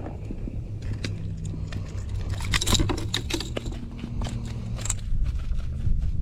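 Jig hook being worked free of a freshly caught redfish: a run of sharp clicks, scrapes and rattles of metal and handling, busiest around the middle and again near the end. A steady low hum runs underneath.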